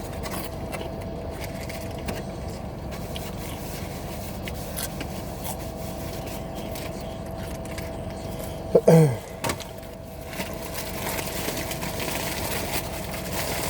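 Steady low hum inside a car, with a faint steady tone running through it. About nine seconds in, a brief loud sound drops steeply in pitch.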